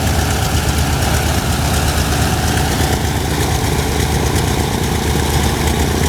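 Mitsubishi A6M5 Zero fighter's Sakae 21 fourteen-cylinder twin-row radial engine idling steadily with a deep, even pulse.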